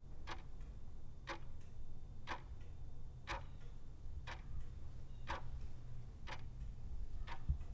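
Clock ticking once a second, eight even ticks over a low steady hum.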